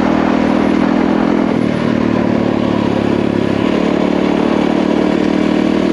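Yamaha WR450F single-cylinder four-stroke dirt bike engine running steadily as the bike rides along a trail, its note shifting slightly about two seconds in and again near four seconds.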